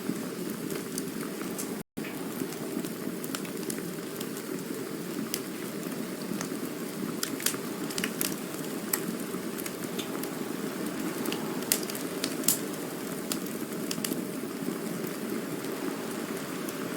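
Campfire burning: a steady low rushing hiss with scattered sharp crackles and pops, a few louder snaps in the middle. The sound cuts out completely for a split second about two seconds in.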